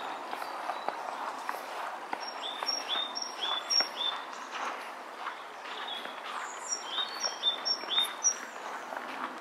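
A small songbird singing a repeated two-note phrase, a higher note then a lower one, several times in a row; the run comes twice, about two seconds apart.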